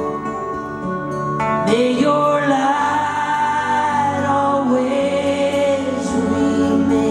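Live band playing a slow song, with a voice holding long notes; the melody slides up into a high held note about two seconds in, then settles lower near the middle.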